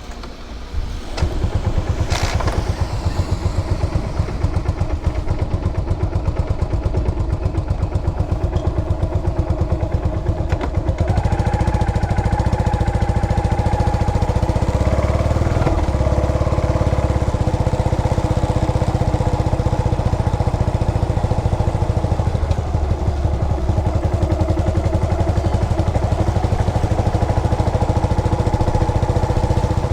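The 2003 Yamaha SR400's air-cooled single-cylinder engine starts about a second in and runs with an even beat of exhaust pulses. From about eleven seconds in it is a little louder and adds a steady tone.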